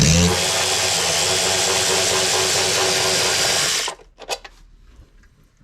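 Cordless power tool running steadily for about four seconds, then cutting off abruptly, as it backs a bolt out of the engine's top cover.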